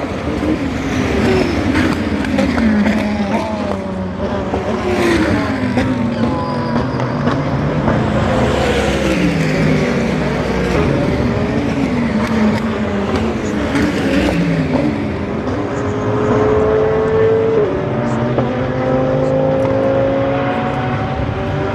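GT race cars passing at speed, one after another, their engine notes dropping in pitch as each goes by. Near the end the engine notes hold steadier.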